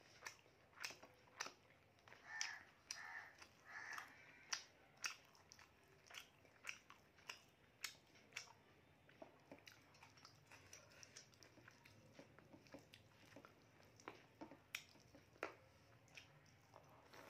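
Close-up eating sounds: chewing, wet lip smacks and clicks at an irregular pace, several a second, as rice and mutton curry are eaten by hand.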